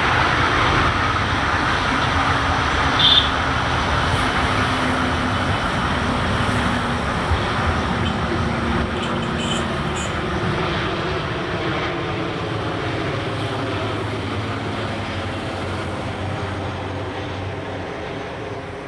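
Passenger train of LHB coaches rolling away on the rails, its rumble fading slowly and steadily as it recedes.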